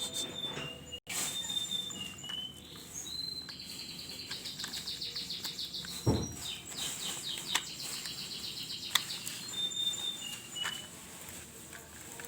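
Small bird chirping: short high whistled notes and runs of rapid trills, with a single thump about six seconds in.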